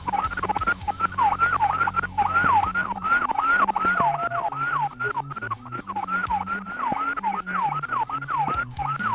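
Police car siren in a fast yelp, its pitch sweeping up and down about three times a second without pause.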